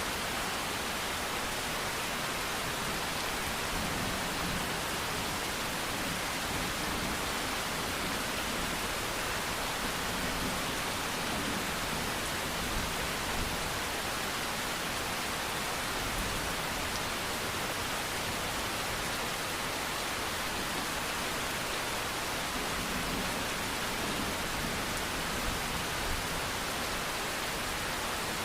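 Steady rain falling, a dense even hiss of drops with no breaks or changes.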